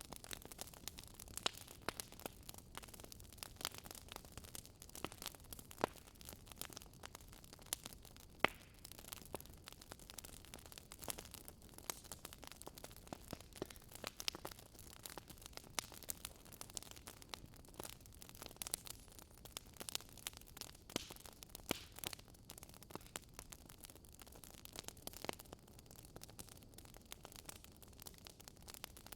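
Wood fire burning in a fireplace, crackling: many irregular sharp pops and snaps over a soft hiss.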